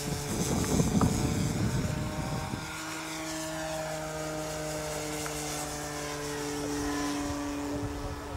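Electric motor and propeller of an RC Cessna 182 model airplane, a steady droning hum whose pitch drifts slightly. A rough low rumble lies under it for the first couple of seconds.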